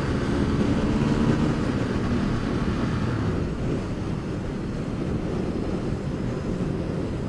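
Ducati XDiavel's 1262 cc Testastretta V-twin running under way, with wind noise on the microphone. About three and a half seconds in, the engine note drops away as the throttle is closed to change riding modes, leaving mostly a steady wind and road noise.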